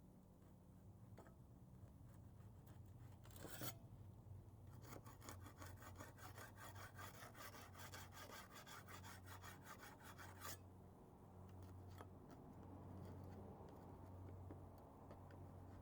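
Hand scraping of old paint: one short scrape a few seconds in, then about five seconds of rapid back-and-forth scraping strokes. A faint low hum runs underneath.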